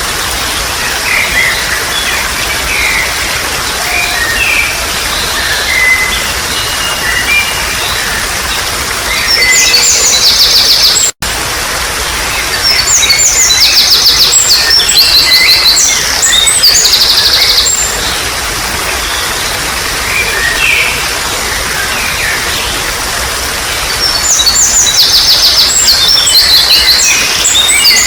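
Water trickling and babbling steadily, with several wild birds chirping over it and bursts of loud, rapid high-pitched trilling that come in three spells. The sound cuts out for an instant about a third of the way in.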